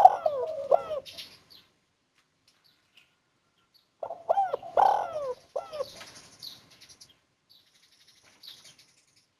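Spotted dove (tekukur) cooing: two song phrases of low, rounded coo notes, the first ending about a second in and the second starting about four seconds in. It is a 'kuk 1' bird, its phrase closing on a single clear 'kuk'. Faint high chirps sound between the phrases.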